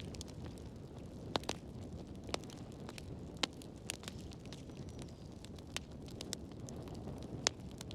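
Burning firewood crackling in a fireplace: a steady low rumble with sharp pops about once a second, the loudest near the end.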